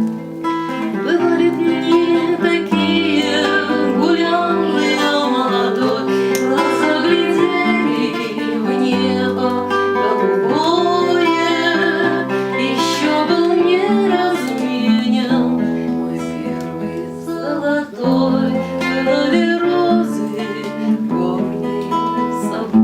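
Acoustic guitar accompaniment of a bard song, strummed and plucked, with a woman singing over much of it.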